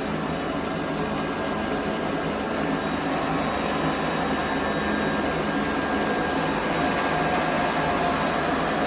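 Electric suction unit (aspirator) motor running steadily, a loud, even whooshing hum like a large vacuum blower, with no change in speed.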